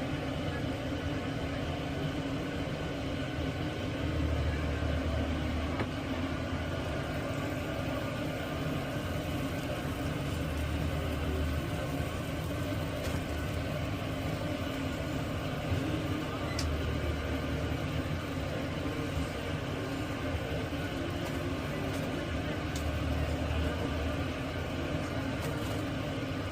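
Steady mechanical hum and rumble with a deeper low swell that comes back about every six seconds.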